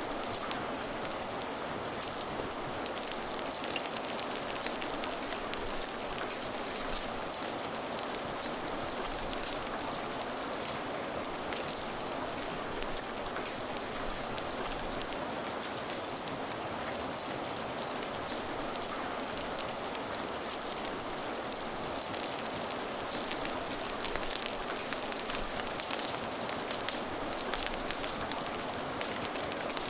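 Steady rain falling on a surface, an even hiss, mixed with a crackling fire whose small pops and ticks are scattered throughout and come thicker toward the end.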